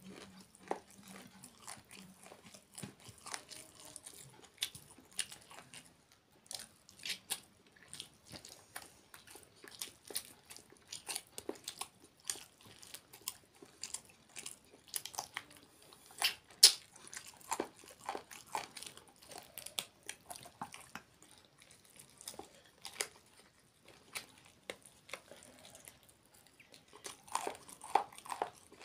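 Close eating sounds of a person chewing rice and chicken curry eaten by hand, with irregular wet clicks and crunches. One sharp click about sixteen seconds in, and a denser run of them near the end.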